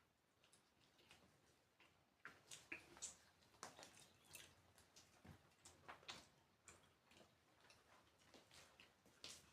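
Near silence with faint, irregular clicks and smacks of someone chewing food, busiest in the middle.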